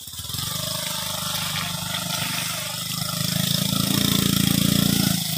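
Small motorcycle engine running at low speed while carrying a heavy load of oil palm fruit bunches in side baskets along a muddy track; it grows louder about three seconds in.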